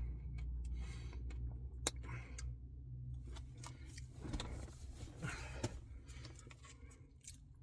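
Faint eating sounds of a Blizzard ice cream, scattered soft clicks, smacks and scrapes of spoon and mouth, over a low steady hum.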